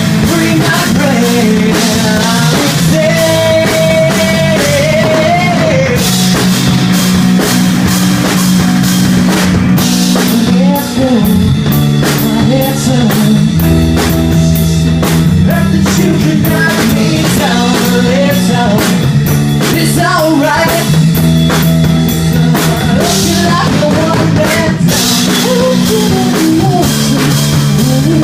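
Rock band playing live: drum kit, distorted electric guitars and bass, with a singer's melody over it.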